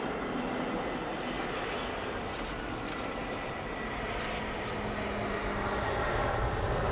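Twin jet engines of an Airbus A320 on approach to land: a steady rushing roar with a faint whine that grows louder toward the end. A few short, light clicks come in the middle.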